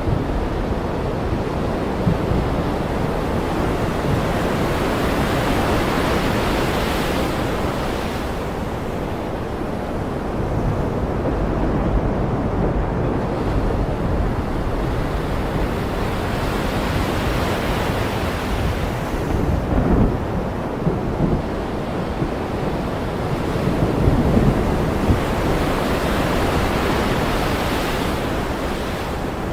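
Ocean surf breaking and washing in, swelling and fading in slow surges about every ten seconds, with a few low rumbles of thunder mixed in.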